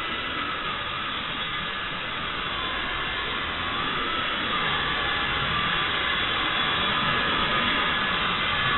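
Xieda 9968 mini RC helicopter's electric motor and rotor whirring steadily, the whine wavering up and down in pitch as the throttle changes, a little louder in the second half.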